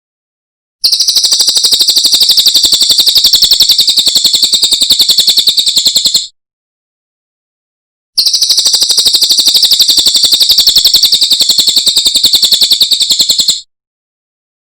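Cililin bird song: a fast, even, high-pitched trill of rapid notes, given twice, each trill lasting about five and a half seconds with a short pause between.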